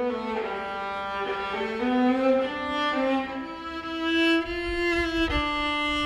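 Bowed string instruments playing a slow melody of long held notes that change pitch every second or so, the lower line growing fuller in the second half.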